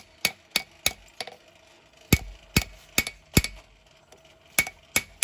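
Hammer blows on an anvil, forging a hot steel knife blade, each strike ringing. About ten blows come in three quick groups with short pauses between them, and the middle four are the heaviest.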